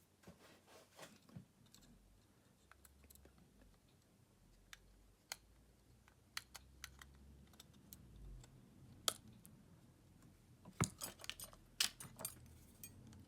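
Scattered sharp clicks and taps of small repair tools and plastic parts being handled on a smartphone, with a quick run of louder clicks near the end.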